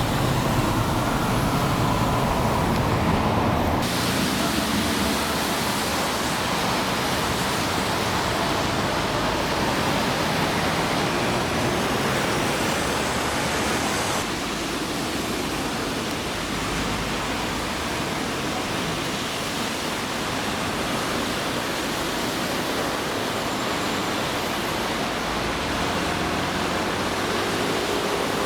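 Torrential rain falling, a steady loud hiss that changes abruptly twice.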